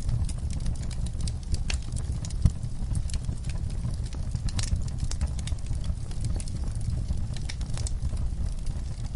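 Wood fire crackling in a fireplace: irregular pops and snaps from the burning logs over a steady low rumble of the flames, with one louder pop about two and a half seconds in.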